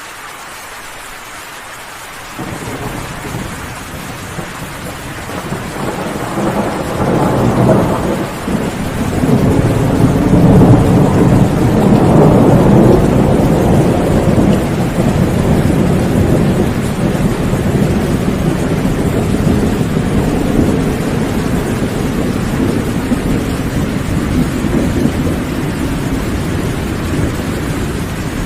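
Steady rain, then a long roll of thunder that breaks in about two seconds in, swells in waves to its loudest near the middle and slowly dies away under the continuing rain.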